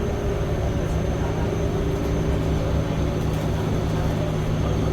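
Steady vehicle engine hum heard from inside, with a few constant low tones and a faint high whine.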